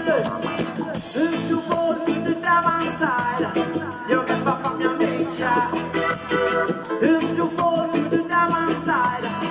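Live reggae band playing, with sliding melodic lines over a steady beat.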